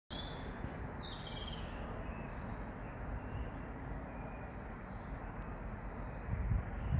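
A bird chirping, with a few short high calls in the first second or so and fainter chirps after, over a steady low background noise. A low rumble swells near the end.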